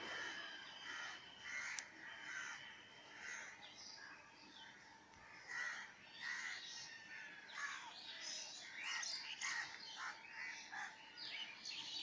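Birds calling: many short calls overlapping, growing busier about halfway through.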